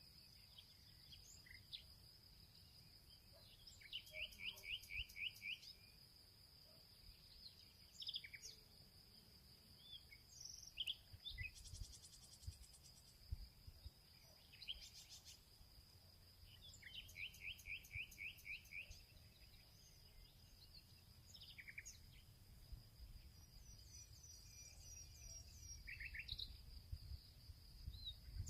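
Birds singing and chirping over a steady, high insect drone. One bird twice gives a quick run of about eight evenly spaced notes, about four seconds in and again near the middle. Other short chirps are scattered between.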